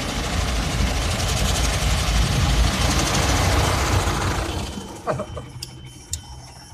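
Loud rushing vehicle noise heard from inside a car, swelling over the first few seconds and then fading away.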